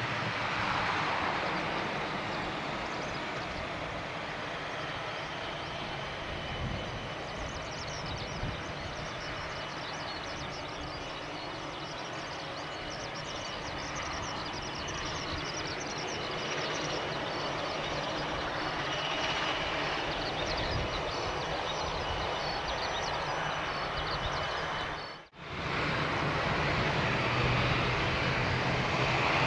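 Steady noise and faint whine from an ATR 42-600 turboprop on the ground. About 25 s in, after a brief gap, a louder steady engine noise begins as its Pratt & Whitney PW127M engine starts.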